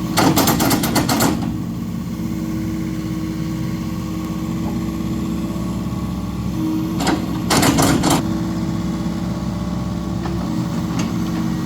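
Excavator's diesel engine running steadily at a constant pitch, with two short bursts of clatter, one right at the start and another about seven seconds in.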